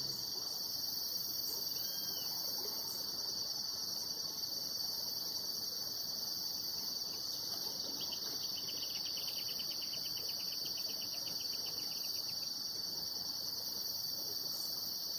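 Steady, high-pitched chirring of insects, several layered together. About eight seconds in, a second, slightly lower rapid trill of pulses joins for about four seconds.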